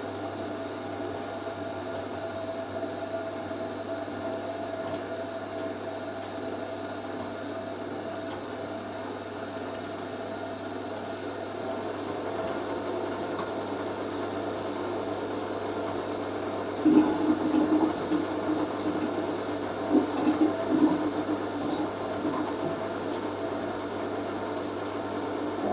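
Hoover A3060 Electronic 1100 washing machine in the first, 500 rpm stage of its final spin, its motor giving a steady whine. About two-thirds of the way through, louder uneven bursts of vibration noise join in as the machine shakes.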